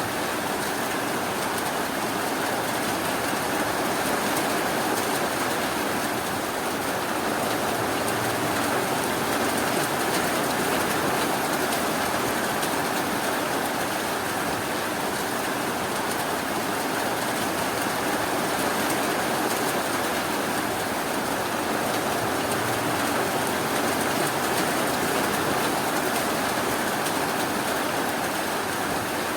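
Steady rainfall, an even hiss without breaks or thunder.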